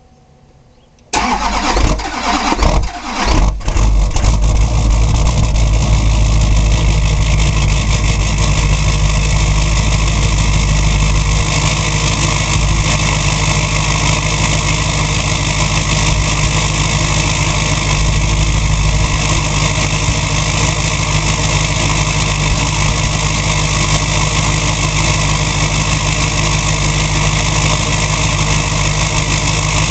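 2004 Chevy Duramax 6.6-litre V8 turbodiesel with no exhaust system, cold-started: about a second in the starter cranks it unevenly for a couple of seconds, then it catches and idles loud and steady.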